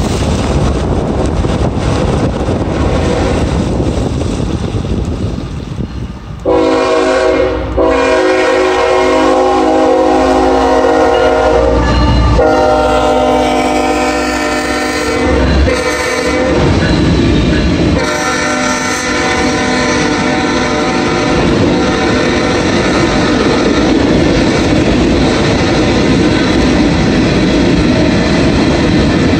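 Wind noise on the microphone, then about six seconds in a CSX freight locomotive's horn sounds: long blasts with a short one among them, the grade-crossing signal. After that, the steady rumble and clickety-clack of the locomotives and tank cars rolling through the crossing.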